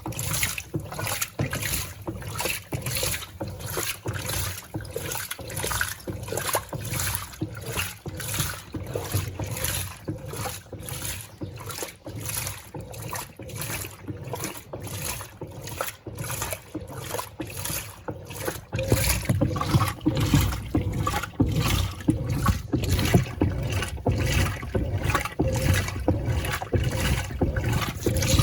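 Electrolux Turbo Compacta 7 kg top-loading washing machine agitating a load in water: rhythmic sloshing and churning. It gets louder and fuller about two-thirds of the way through.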